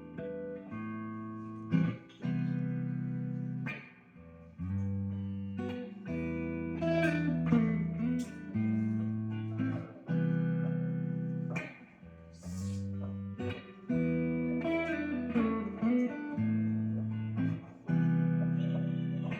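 Guitar playing a run of chords, each ringing for one to two seconds, with sliding notes between some of them.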